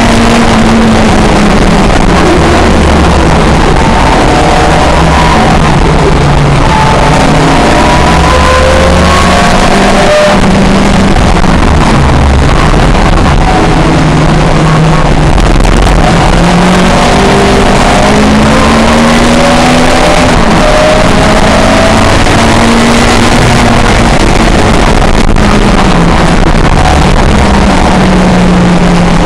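Pre-1966 touring car engines at racing speed, the pitch climbing under acceleration and dropping back at each gear change, over and over. The sound is loud and dense throughout.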